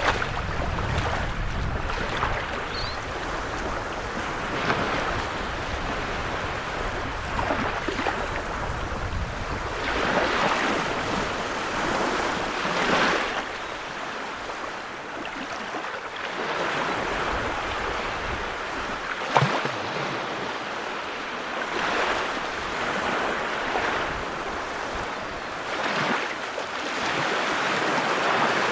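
Sea waves breaking and washing in: a continuous rush of surf that swells and eases every few seconds.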